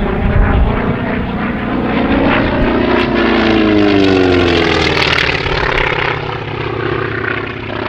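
North American T-28B Trojan's Wright R-1820 Cyclone radial engine and propeller running during a display flypast. The pitch drops as it passes, loudest a few seconds in, then fades slightly.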